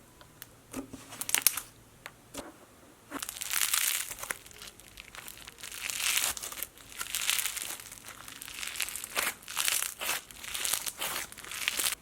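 Slime and its plastic containers being handled close up: a few sharp clicks, then irregular bursts of crinkling and crackling.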